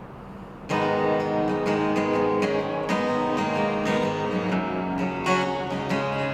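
Music: acoustic guitar strumming chords, starting just under a second in after a faint hiss.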